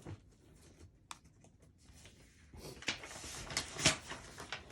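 Scrap paper being pulled out and handled on a desk: quiet at first with a few light ticks, then rustling and crinkling from about halfway in, with one louder rustle near the end.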